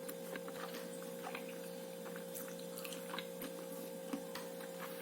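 Faint chewing of a soft steamed pork bao, with scattered small mouth clicks over a steady electrical hum.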